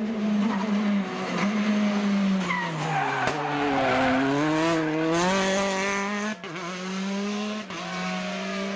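Rally car engine running hard. Its revs sag to a low point around the middle and climb back up, over a hiss of tyre and road noise.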